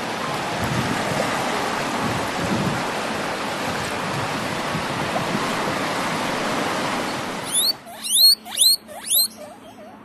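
Steady wash of small waves on a shore. About three-quarters of the way through it gives way to a rapid run of short, high squeaks, each falling in pitch: a guinea pig squeaking.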